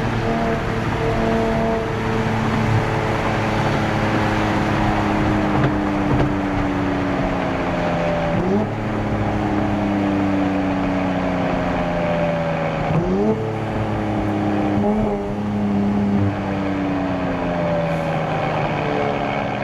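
Nissan Z Nismo's twin-turbo V6 running on the highway through Nismo cold air intakes and a Nismo track exhaust. The engine note sinks slowly in pitch, jumps sharply upward three times (about 8, 13 and 15 seconds in), and sinks slowly again after each jump.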